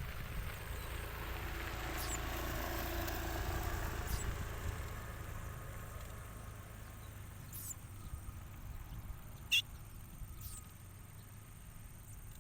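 Short, sharp high bird chirps, one every second or two, the loudest about two-thirds of the way through, over a vehicle passing in the distance whose rumble swells and fades in the first few seconds.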